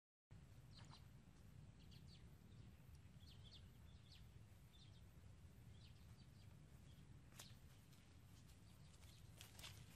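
Faint outdoor field ambience: small birds give short, scattered chirps over a low steady rumble. A few sharp clicks come near the end.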